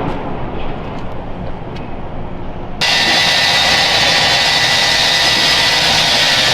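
Gas-powered two-stroke demo (cut-off) saw cutting the steel frame of a trailer. A lower engine sound is heard first, then about three seconds in a loud, steady, high screeching cut starts suddenly and holds.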